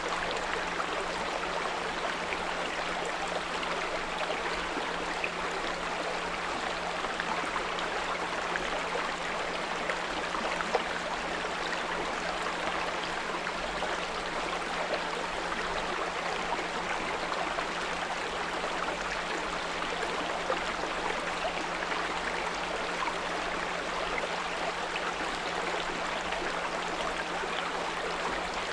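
Small brook babbling and trickling steadily, with a steady 174 Hz pure tone mixed in underneath.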